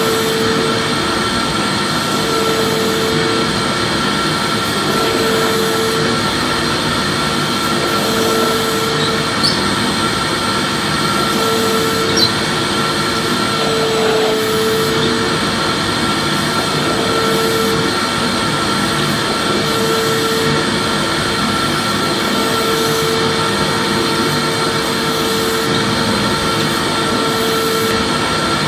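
Vacuum cleaner running steadily: an even rushing hiss with a constant motor whine, and a hum that swells and fades about every three seconds.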